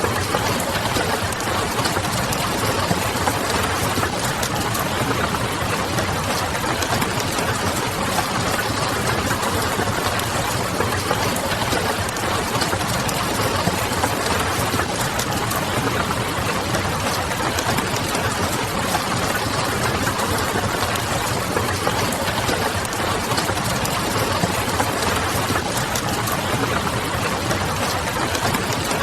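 Steady rain pattering on a window mixed with the fine crackle of a wood fire and a low, steady hum underneath.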